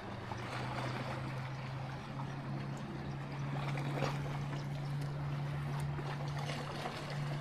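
A steady low drone of a boat engine that rises slightly in pitch about three seconds in, over water and wind noise on open water.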